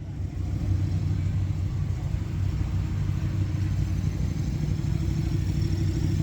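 Car engine running steadily with a deep, even rumble, cutting in suddenly just before the start.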